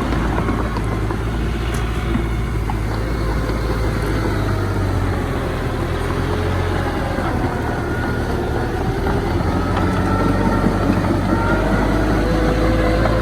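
Diesel engine of heavy earthmoving machinery running steadily with a deep, constant hum; faint wavering whines come and go higher up in the second half.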